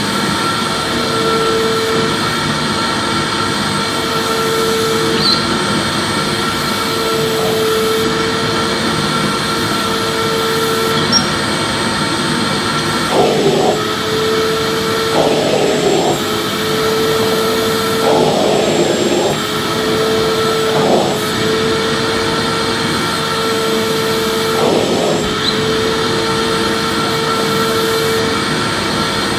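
Vacuum cleaner running steadily, a dense rushing noise with a constant humming whine, broken by a few brief rough flutters around the middle.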